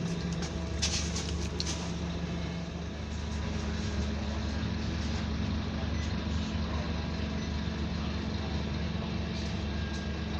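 Scania Enviro 300 single-deck bus engine running, with a steady low drone whose note shifts upward about three seconds in, and a few short hisses about a second in.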